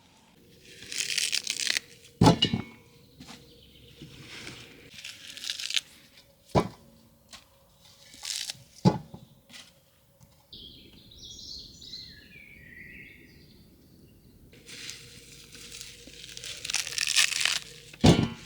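Rustling, crinkling handling noises with four sharp knocks spread through, the loudest about two seconds in and near the end. A short high twittering sound comes around the middle.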